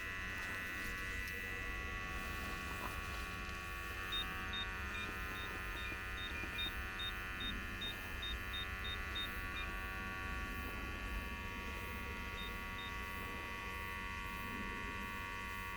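Tracer-gas leak detector running with a steady electric buzz. Short high beeps come in about four seconds in, roughly two a second for about six seconds, then two more near the end, as the detector responds to gas.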